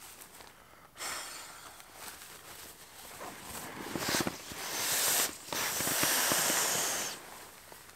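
Rustling and crinkling of fabric and gear being handled, loudest from about four to seven seconds in.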